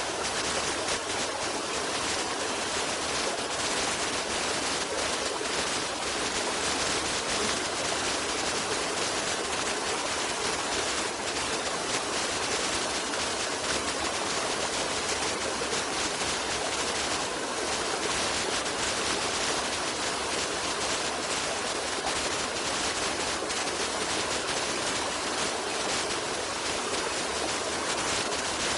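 Stream water running steadily, an even unbroken wash of noise with no change in level.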